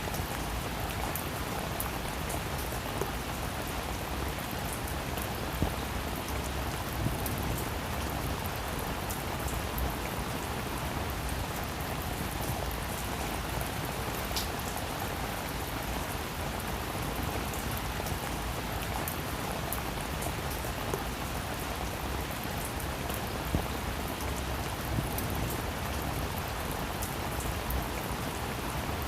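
Steady rain falling on a roof, an even hiss with scattered individual drops ticking, a few of them louder.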